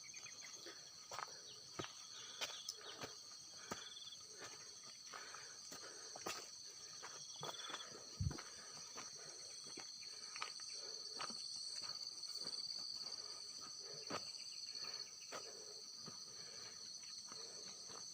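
Steady high-pitched chorus of forest insects, with scattered footsteps and rustling along a steep trail.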